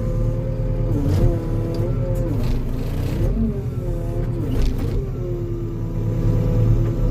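Engine of a compact earthmoving machine running under heavy load as it pulls a tree out. Its pitch sags and recovers about four times as the hydraulics strain, with a few sharp knocks along the way.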